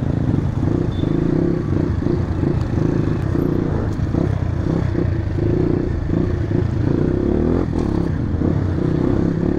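Motorcycle engine running under way, the revs rising and falling as it rides, with a rise in revs near the end.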